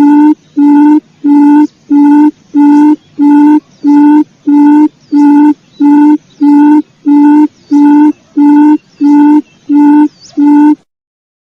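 Quail lure call: short, low, pitched notes repeated evenly about twice a second, stopping abruptly near the end.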